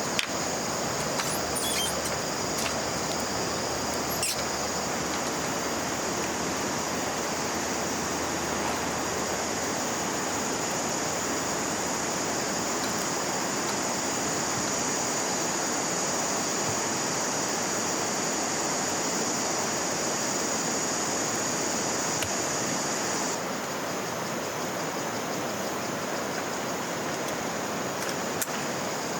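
River water flowing with a steady rushing sound. A high-pitched steady buzz rides on top and stops about 23 seconds in, and a few sharp clicks come in the first few seconds.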